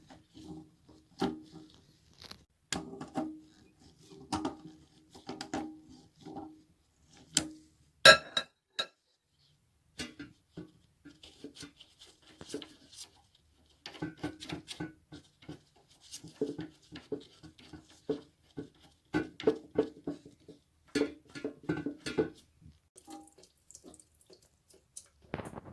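Irregular knocks, clicks and clunks of hard parts being handled during work on a toilet fill valve, some with a short ringing tone, and one sharp, loud knock about eight seconds in.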